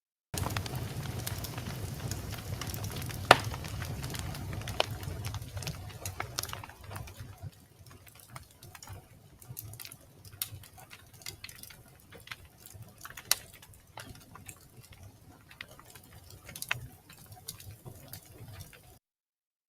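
Log fire crackling: irregular sharp pops and snaps over a low steady rumble of flame, one loud pop about three seconds in. The rumble fades after about seven seconds, leaving sparser crackles. The sound cuts to silence briefly at the very start and again shortly before the end.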